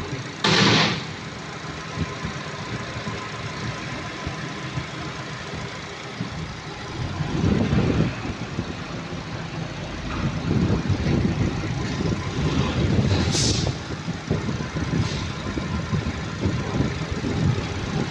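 Subaru Legacy's engine idling steadily, its low hum swelling now and then. There is a short hiss just after the start and a thinner, higher hiss about two-thirds of the way through.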